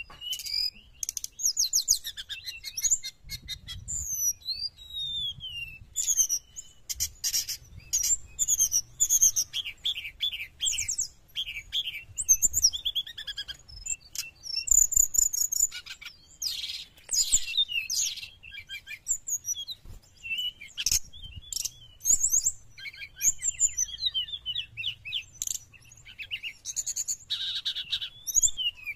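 Brown-chested jungle flycatcher (sikatan rimba dada coklat) singing vigorously: a continuous rush of high, rapidly varied twitters, quick trills and short gliding whistles with barely a pause.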